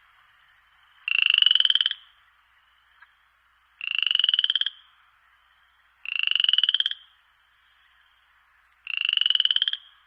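A frog calling: four short pulsed trills, each under a second, rising slightly in pitch and spaced two to three seconds apart.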